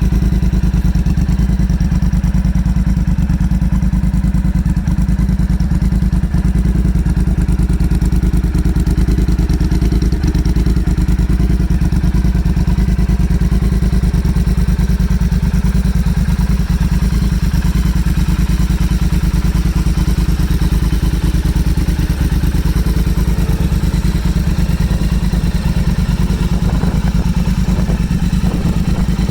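Motorcycle engine running steadily at a constant speed, with a dense, even pulse of firing strokes and no revving.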